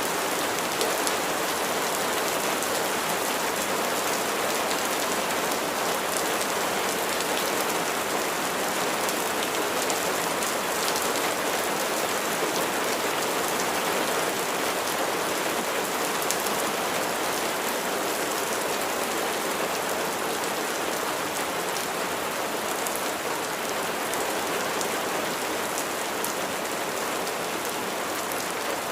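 Steady rain falling, an even hiss of many raindrops that holds at one level throughout.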